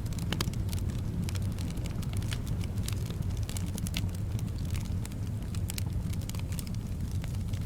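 Wood fire crackling in a fireplace, with frequent irregular sharp pops and snaps over a steady low rumble of wind.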